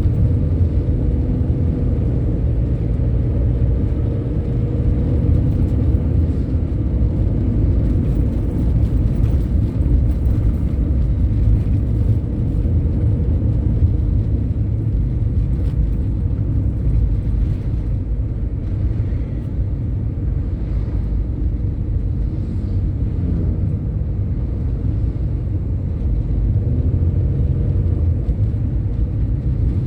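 Large bus on the road: a steady low rumble of engine and road noise, with no breaks.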